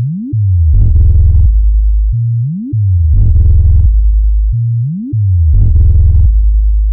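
Electronic synthesizer bass for a low-frequency speaker test: heavy deep bass notes, each cycle opening with a quick rising sweep, repeating about every two and a half seconds.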